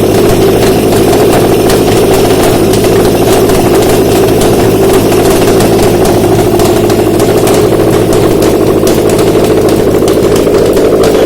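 Subaru EJ204 2.0-litre flat-four engine idling steadily on a test stand, with a light, rapid ticking over the steady running.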